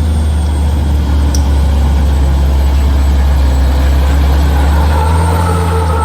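Heavy truck's diesel engine running with a deep, steady drone as it labours up a steep climb. About four and a half seconds in, a steady higher whine joins the engine sound.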